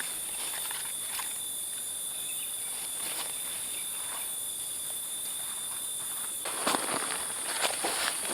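Steady high-pitched chorus of forest insects such as crickets, with a thin steady tone running through it. About two-thirds of the way in, crunching rustles in leaf litter start up, like someone moving about on dry leaves.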